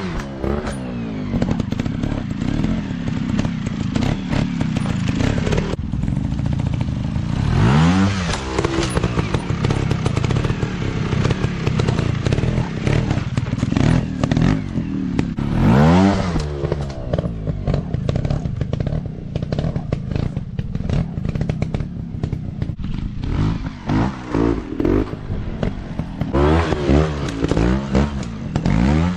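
Dirt bike engines revving hard and easing off, the pitch rising and falling several times as the bikes ride.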